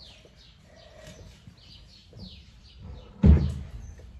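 Small birds chirping over and over in short falling chirps. About three seconds in, a single loud thump, the loudest sound.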